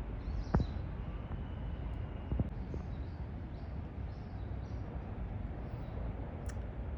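Small birds chirping in short, repeated calls over a steady low rumble, with two sharp clicks about half a second and two and a half seconds in.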